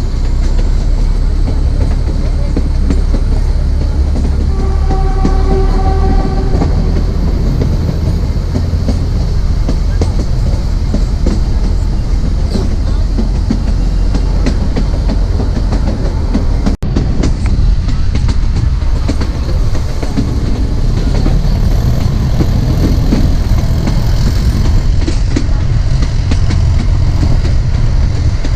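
Narrow gauge train running, heard from on board: a steady rumble of wheels with the clickety-clack of rail joints. The ZDM4A diesel locomotive's horn sounds once for about two seconds, about five seconds in.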